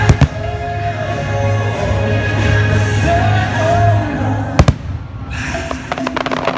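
Fireworks show soundtrack playing over outdoor loudspeakers, with sharp firework bangs cutting through: one right at the start and a quick double bang about four and a half seconds in. Near the end the music changes to a rhythmic, percussion-driven passage.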